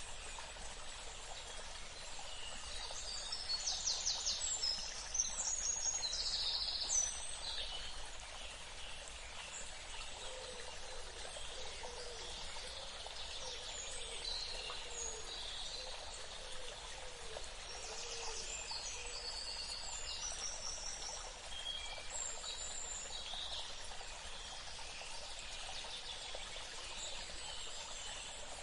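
A steady rush of flowing water with birds calling and chirping over it. The bird calls are busiest and loudest a few seconds in, with another flurry about two-thirds of the way through.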